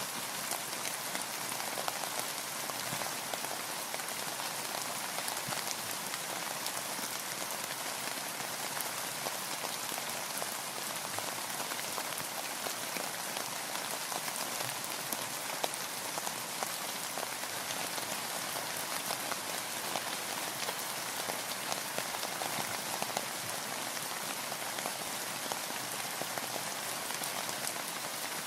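Steady rain falling on a boat, a dense patter of drops with many small ticks.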